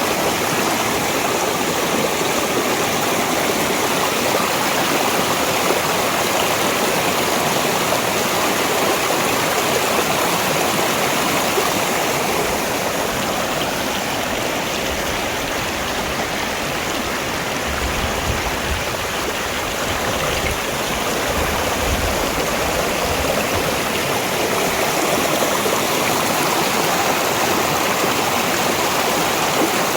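Mountain valley stream rushing and splashing over rocks, a steady, unbroken water noise.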